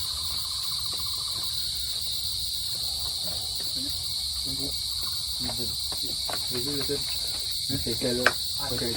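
Steady high-pitched chorus of forest insects, with faint, brief voices in the background.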